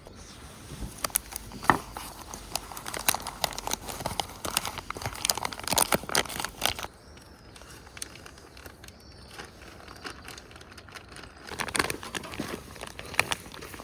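Irregular crinkling and crackling in two bouts, with a quieter stretch in between.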